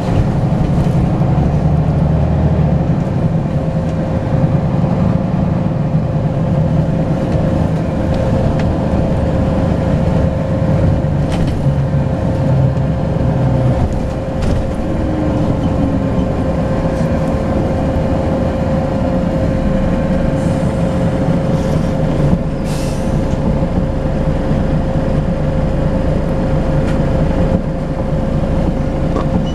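Volvo B10BLE bus engine running under way, with a steady turbo whistle held throughout. The engine is pulling harder in the first half and eases about halfway through. A brief hiss comes about three quarters of the way in.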